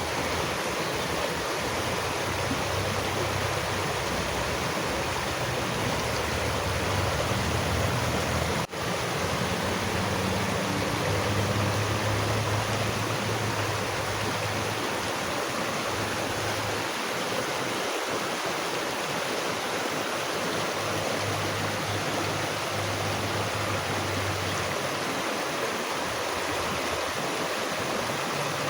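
Water flowing steadily with an even rushing sound, like a stream or small waterfall, with some low rumble that comes and goes. The sound drops out for an instant about nine seconds in.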